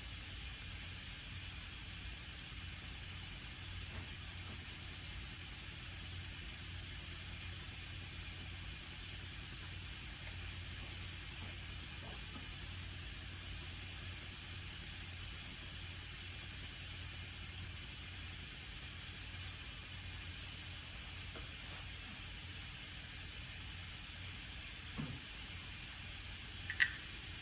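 Steady background hiss with a low hum underneath, even in level throughout, with a few faint clicks near the end.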